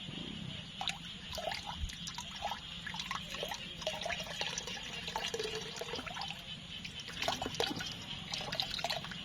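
Water dripping and splashing in many small, irregular plops over a steady hiss of running water.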